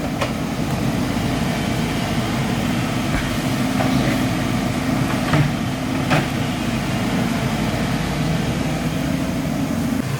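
Excavator's diesel engine running steadily under work, with a few short sharp knocks over it.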